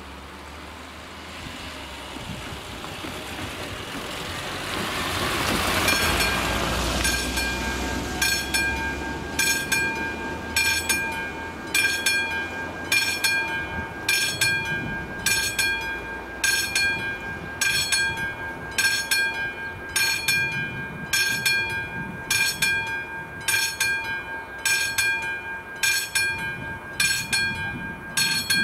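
A railway level-crossing warning bell starts ringing about six seconds in and goes on in a steady, even series of dings, about one every three-quarters of a second. Before it starts, a rushing noise swells up.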